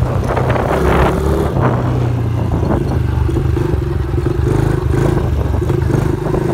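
Dirt bike engine running at a steady speed, with scattered clattering knocks over it.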